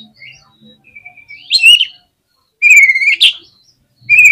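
Oriental magpie-robin (kacer) singing loud, sliding whistled phrases in short bursts, with pauses of about a second between them.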